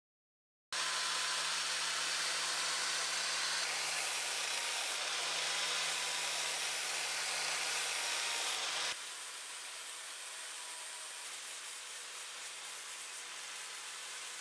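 A power tool running steadily with a hiss and a faint low hum. It starts after under a second of dead silence, and about 9 s in it cuts to a somewhat quieter take of the same kind of sound.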